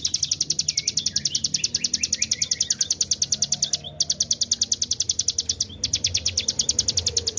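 Hill prinia (ciblek gunung) singing its long rapid trill: a fast, even string of high, sharp notes, about ten a second, broken only by two brief pauses.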